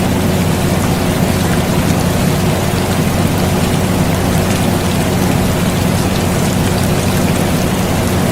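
Steady air conditioner hum with a constant low drone, layered with the even hiss and patter of falling rain.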